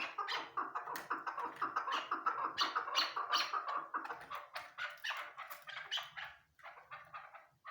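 Chukar partridge calling: a fast run of short, repeated chattering notes, about four or five a second, easing off somewhat in the second half.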